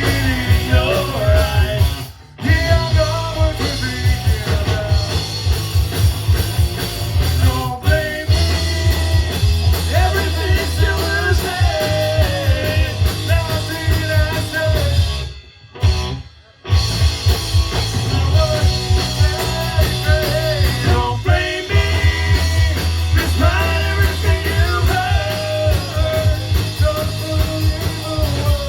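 A punk rock band playing live: a sung vocal line over guitars, bass and drums. The whole band stops dead briefly about two seconds in, again for about a second midway, and once more shortly after.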